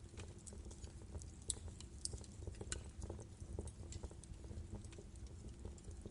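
Wood fire in a fireplace crackling: irregular sharp pops and snaps of burning logs over a low steady rumble of the flames.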